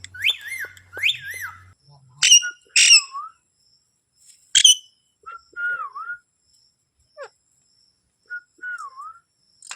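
Pet ringneck parrot whistling and calling: two rising-and-falling whistles, then three short, sharp calls that are the loudest sounds, then two softer dipping whistles with pauses between.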